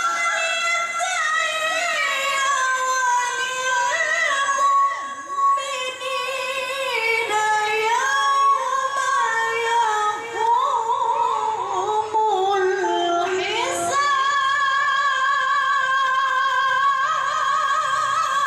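A woman's high voice reciting the Quran in melodic tilawah style, with long ornamented runs that waver and slide in pitch. About 13 seconds in it glides up to a high note and holds it steadily.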